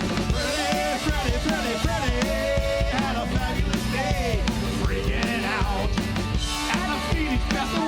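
Live band playing a funk song: drum kit and a driving bass line under a lead line that bends and wavers in pitch.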